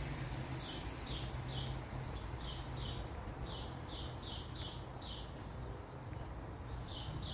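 A bird chirping, short high chirps repeated about two a second, pausing for a second or so near the end, over a steady low hum.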